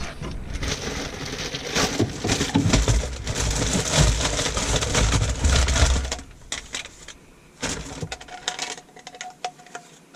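Hands working drain parts: rubbing and scraping for about six seconds, then a few light clicks and taps as pieces are fitted together.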